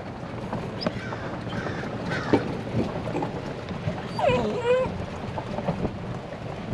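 Wind buffeting the microphone, with one short animal cry about four seconds in that drops in pitch and then holds level.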